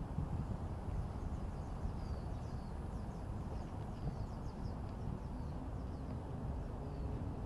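A bird chirping in quick runs of short, high notes, over a steady low rumble.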